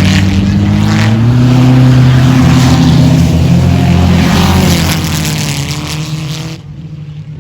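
Race car engine running loud, its pitch rising over the first two seconds and then holding steady before fading away; the sound drops off abruptly near the end.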